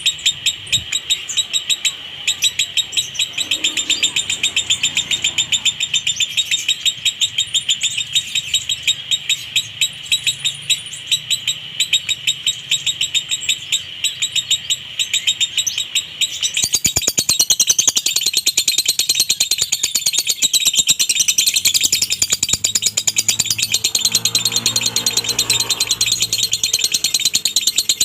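Lovebird singing a long, unbroken 'konslet' song: a rapid, dry-toned chatter of high chirps, many a second. About 17 seconds in, the chatter becomes denser and higher.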